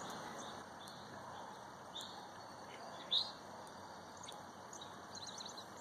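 Backyard birds chirping: a few short, high chirps, the loudest just after three seconds in, and a quick run of notes near the end, over a faint steady outdoor hiss.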